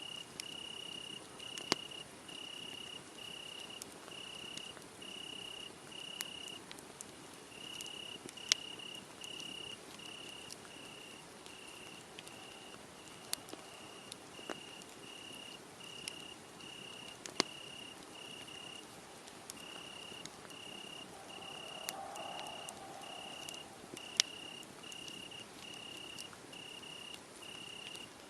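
Crickets chirping in an even, high-pitched rhythm of about three chirps every two seconds, over a wood fire crackling with a few sharp pops.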